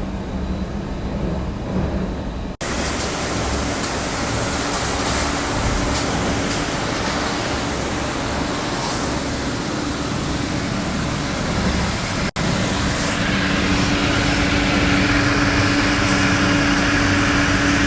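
Hobart conveyor dishwasher running its wash: a steady rush of water spray from the wash pumps with motor hum. It breaks off abruptly twice, about two and a half seconds in and again about twelve seconds in, and after the second break a steady hum stands out more clearly.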